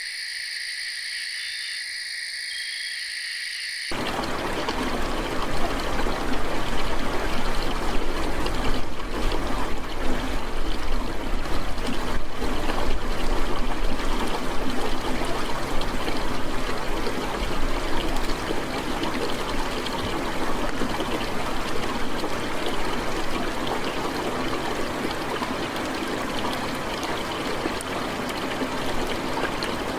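A night chorus of insects and frogs, steady high trills, cut off abruptly about four seconds in. Steady rushing water noise takes over, swells, then eases slightly toward the end.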